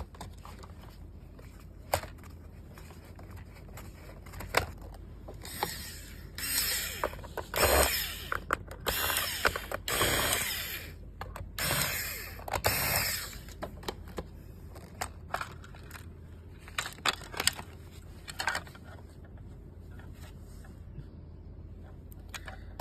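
Handling and tool work on a laser handpiece: scattered sharp clicks, and a run of short rasping, whirring bursts between about 5 and 13 seconds in, with a few more clicks later.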